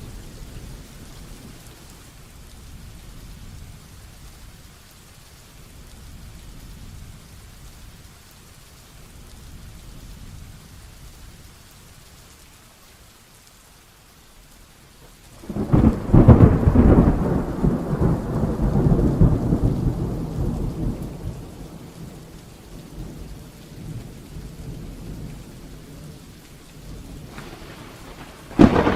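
Heavy rain with thunder. A low rumble fades away over the first half, then about halfway through a sudden loud thunderclap breaks and rolls on for several seconds. Another clap cracks right at the end.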